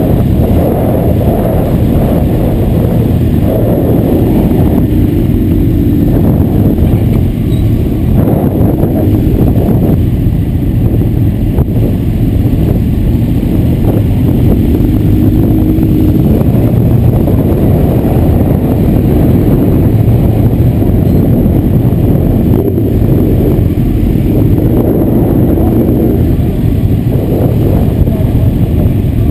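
Sport-bike engines idling close by, the nearest being the Honda CBR1100XX Blackbird's inline-four, with the revs lifting briefly a few times as the bikes creep forward.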